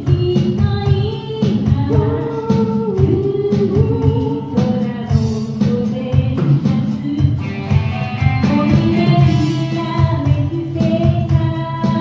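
Live music performance: singing over an accompaniment with a steady beat.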